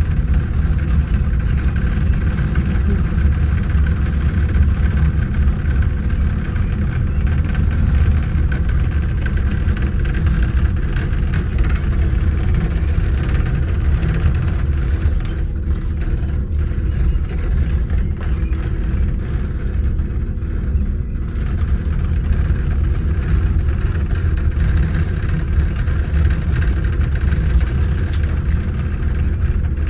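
Mountain monorail car running steadily downhill: a continuous low engine rumble with a faint steady whine above it.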